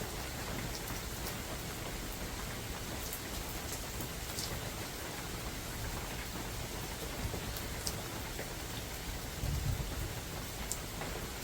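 Steady rain falling in a forest, an even hiss with scattered individual drops ticking close by. A brief low rumble comes about nine and a half seconds in.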